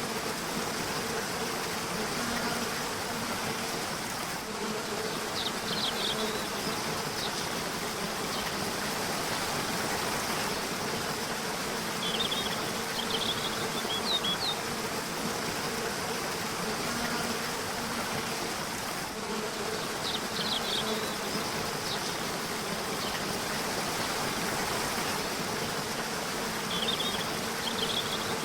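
Steady rushing of a river or waterfall, with short runs of high bird chirps every several seconds and a low wavering buzz like an insect's.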